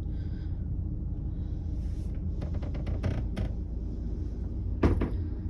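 Steady low hum with a few light clicks, then one sharper knock about five seconds in, like a cabin closet door or cupboard being handled and shut.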